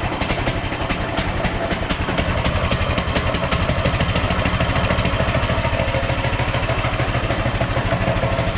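Coleman CT200U-EX mini bike's 196cc single-cylinder four-stroke engine idling steadily just after a pull start, with an even rapid exhaust pulse.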